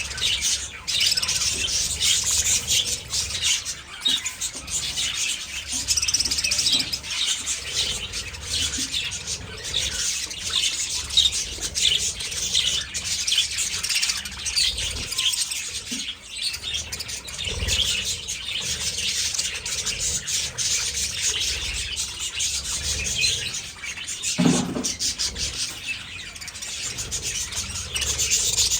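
A colony of budgerigars chirping and chattering continuously, many birds calling at once. About 24 seconds in, a short low sound slides downward in pitch beneath the chatter.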